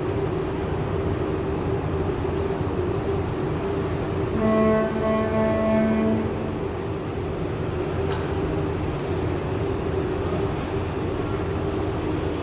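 Steady drone of a cruise ship under way, a constant hum over a rushing noise. About four seconds in, one held tone sounds for about two seconds over the drone.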